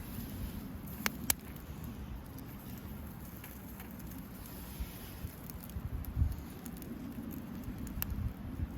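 Campfire crackling, with a few sharp pops, two about a second in and one near the end, over a low steady rumble.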